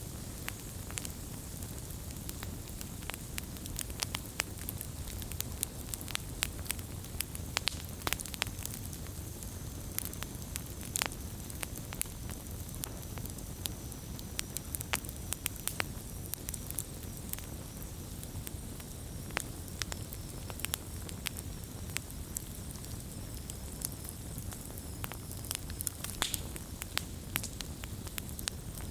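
Wood fire burning steadily, with frequent sharp pops and crackles over a low rush of flame, and a faint high hiss from steam escaping the wood.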